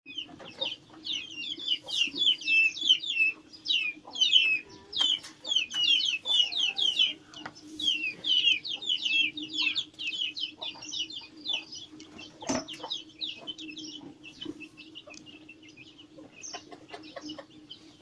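Many small birds chirping rapidly and continuously, busiest in the first half and thinning out toward the end, over a steady low hum. A single sharp knock about two-thirds of the way through.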